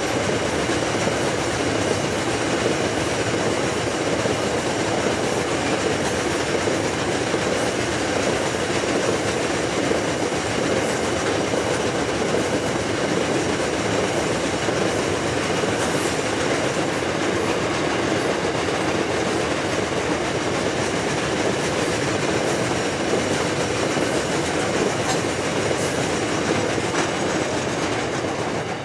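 Loaded iron ore hopper wagons rolling past close by: a steady rumble of steel wheels on rail, with faint irregular clicks.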